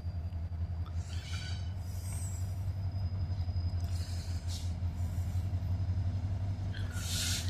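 Diesel locomotives of the Susquehanna railroad running with a steady deep rumble, with a few short hisses, the loudest near the end.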